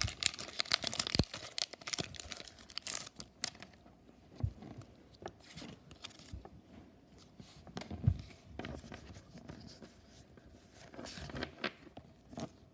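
Foil Pokémon booster pack being torn open, the wrapper crackling and crinkling for the first few seconds. Sparser rustling and handling follow, with a couple of soft thumps and more crinkling near the end.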